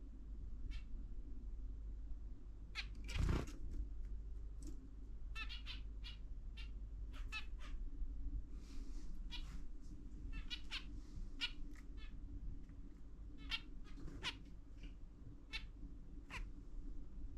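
Pet zebra finches and a budgie calling: a couple dozen short, separate chirps scattered through the stretch, with one louder call about three seconds in.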